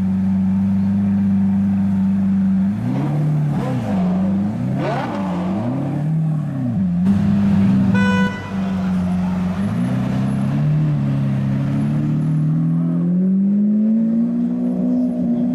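Supercar engine idling, with the throttle blipped four times in quick succession, each rev rising and falling back to idle. A short car-horn beep comes about eight seconds in, and near the end the idle climbs slowly to a higher pitch.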